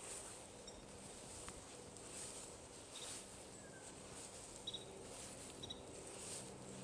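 Faint bird chirps: a few short, high double peeps and one brief falling note, over a faint high hiss that swells and fades.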